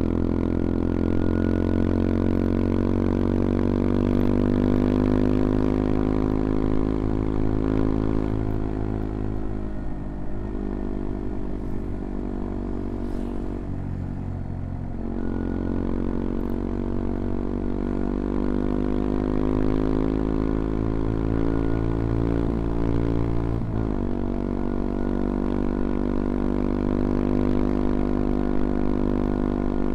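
CFMoto Papio XO-1's small single-cylinder engine running under way, its note slowly climbing as it pulls, easing off and dropping in the middle, then climbing again. Near the end the note cuts briefly and drops lower, as at a gear change, before building once more.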